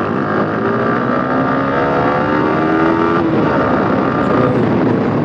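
Yamaha R15 V4's single-cylinder engine accelerating hard, its note rising steadily, then dropping at a gear change about three seconds in and climbing again.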